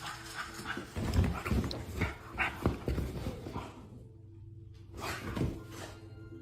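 A dog making a run of short, irregular vocal noises for a few seconds, then, after a brief pause, another short burst.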